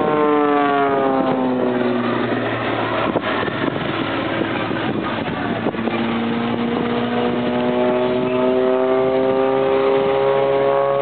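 Propeller aircraft engine passing, its pitch dropping over the first two seconds. About six seconds in it returns with a pitch that rises slowly to the end.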